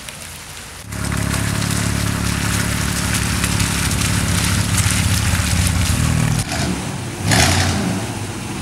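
A classic car's engine running steadily, its even hum coming in abruptly about a second in and fading out after about six seconds, followed by a short loud rush of noise a little after seven seconds, over a hiss of rain.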